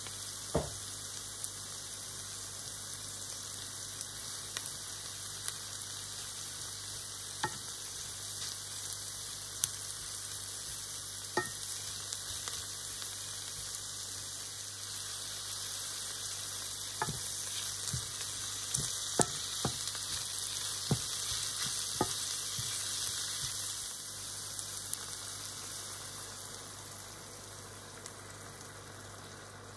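Chanterelle mushrooms and chopped onion sizzling steadily in oil in a pan, with a dozen or so sharp clicks from a wooden spatula stirring them. Near the end the sizzle dies down as cream is poured in.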